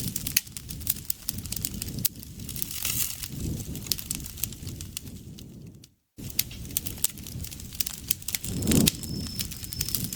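Campfire crackling, with many sharp pops and low, swelling rumbles of the flames. The sound cuts out completely for a moment about six seconds in. From about seven seconds, an insect joins in with a steady, high-pitched trill.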